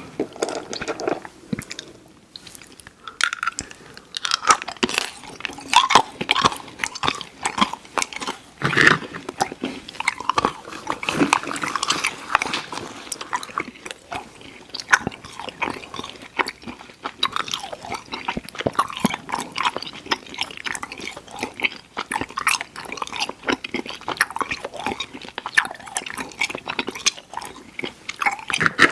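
Close-miked mouth chewing of Airheads Xtremes chewy sour candy: wet, sticky smacks and clicks coming several times a second, without pause.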